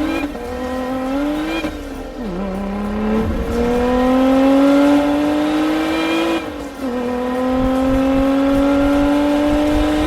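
Car engine accelerating hard through the gears. The note climbs steadily and drops sharply at two upshifts, about two seconds in and again past the middle, then climbs again.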